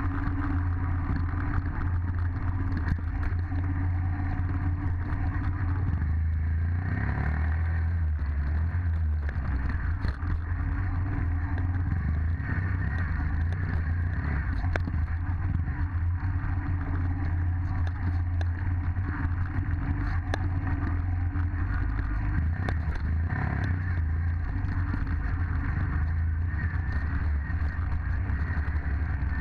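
Dirt bike engine running steadily under way, its pitch shifting briefly about seven seconds in and again near 23 seconds.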